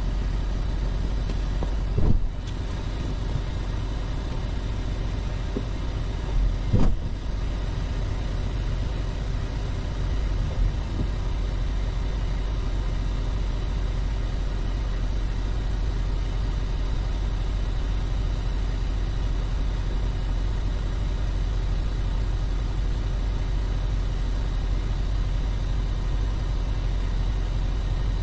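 Pickup truck engine idling steadily, with a few sharp metal clanks about two, seven and ten seconds in as a snowplow is unhitched from the truck.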